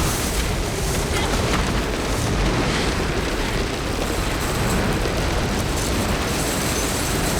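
A film's explosion sound effect: a long, steady deep rumble with a dense hiss over it, with no single sharp blast.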